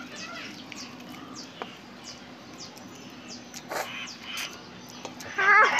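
Small birds chirping repeatedly in short, high, falling notes, over a faint steady hum. Near the end a loud wavering call cuts in.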